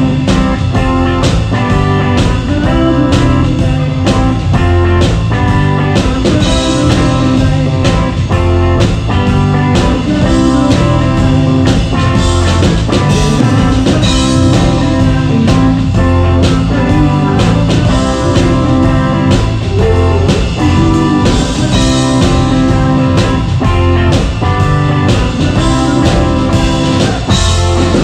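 Live rock band playing with guitar and drum kit, with no singing heard.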